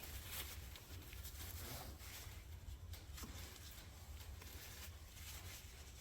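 Faint clicks and light rustling from parts being handled during hand assembly work, over a steady low hum.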